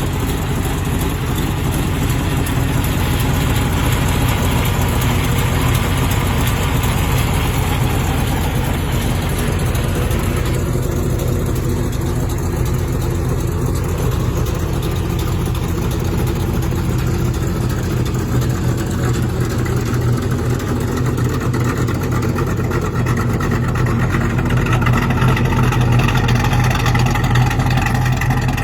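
A 1947 Chevrolet Classic's engine running steadily with a low rumble, getting a little louder near the end.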